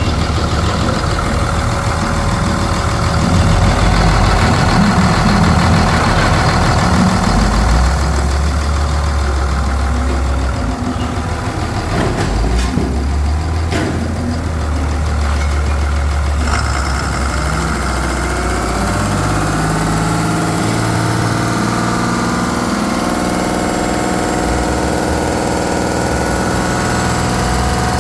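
Cummins ISB 5.9 straight-six turbo-diesel engine running at idle, steady throughout, with a small change in engine speed a little past halfway.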